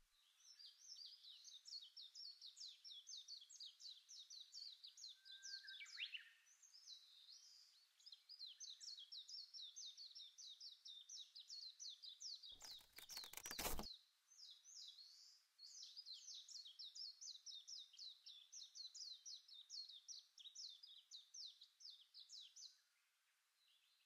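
Small birds chirping faintly: three long runs of quick, high, falling chirps, about four a second, with short gaps between the runs. About halfway through, a burst of noise lasting just over a second is the loudest thing.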